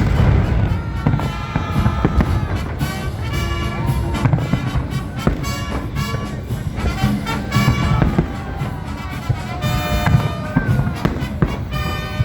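Fireworks salute going off in repeated sharp bangs, over music with brass instruments.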